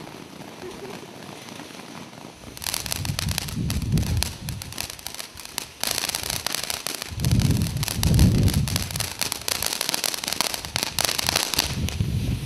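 Consumer ground firework fountain going off: a dense run of crackles and pops that starts about two and a half seconds in, with heavier low thumps twice along the way.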